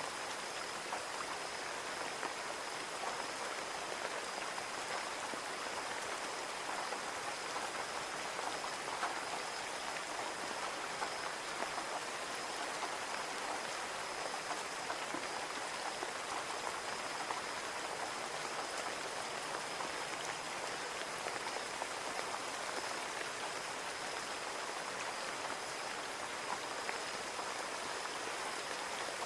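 Steady rain falling on a window pane, a dense patter of small drop ticks over an even wash of rain, with a faint steady high whine underneath.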